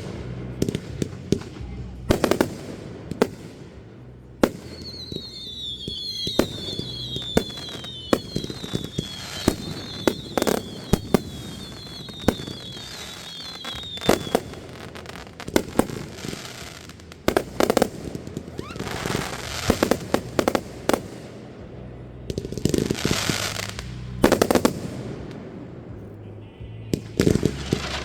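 Consumer fireworks going off: a run of sharp bangs and pops throughout. From about four seconds in, a wavering high whistle runs for about ten seconds. Two stretches of crackling come later, about two seconds each.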